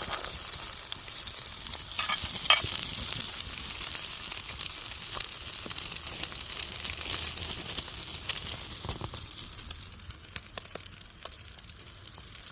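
Eggs frying in butter in a hot cast iron pan over a campfire: a steady sizzle with scattered sharp pops and ticks, the loudest pop about two and a half seconds in. The sizzle eases off a little in the last few seconds.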